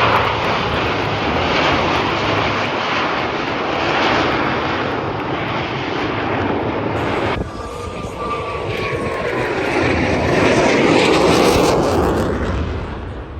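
Jet engines of the Blue Angels' four-ship Diamond of F/A-18 Super Hornets flying past in close formation, making a loud, steady roar. The sound breaks off abruptly about halfway through, then swells to a peak and fades near the end.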